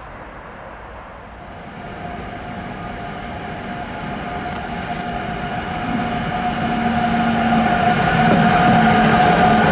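BLS Cargo Re 485 electric locomotive approaching and passing close with a container freight train, the rumble of wheels on rail growing steadily louder. A steady whine joins the rumble about six seconds in.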